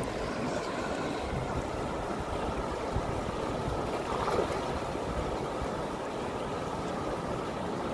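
Fast-flowing river water rushing steadily, with a brief louder sound about halfway through.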